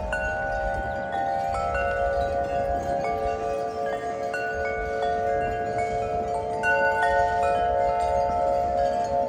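Wind chimes ringing in a gust of wind, their tubes struck again and again so that several notes ring on and overlap. Wind rumbles low on the microphone beneath them.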